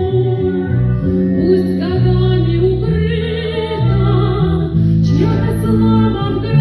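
A song being performed: a voice singing with vibrato over instrumental accompaniment, whose low notes are held and change about once a second.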